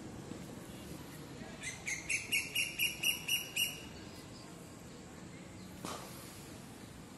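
A bird calling: a quick run of about nine sharp, high chirps, about five a second, lasting some two seconds. A single short knock follows near the end.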